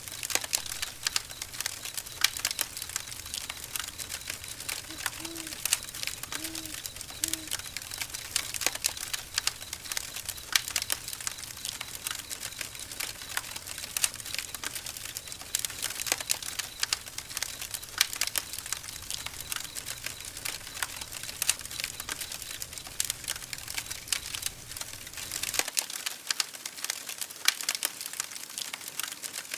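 Wood campfire crackling and popping irregularly over a steady hiss of burning. A low rumble underneath stops abruptly near the end.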